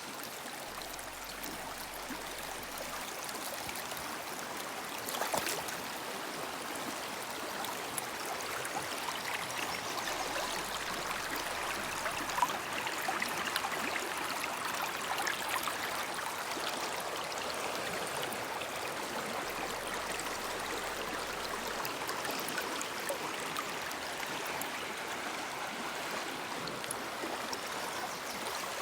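Shallow woodland brook running over rocks: a steady rush of flowing water. Two short knocks stand out, about five and twelve seconds in.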